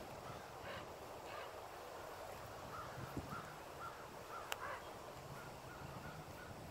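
Faint distant birds calling, a string of short repeated calls, with one sharp click about four and a half seconds in.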